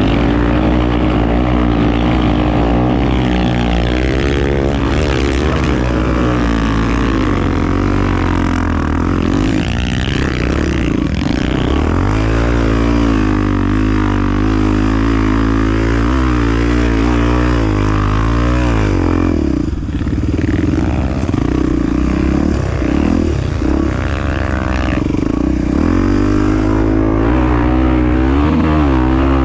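Honda Tornado 250 enduro motorcycle's single-cylinder four-stroke engine under way, its note rising and falling with throttle and gear changes, easing off briefly about twenty seconds in.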